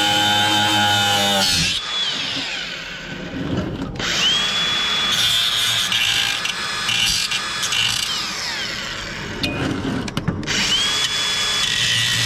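Power drill running in several runs. Its motor whine stops about two seconds in, then spins up again with a rising whine about four seconds in and once more near the end.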